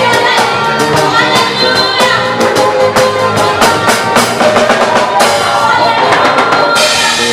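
Live African gospel music: a group of singers over a band with a drum kit keeping a steady beat.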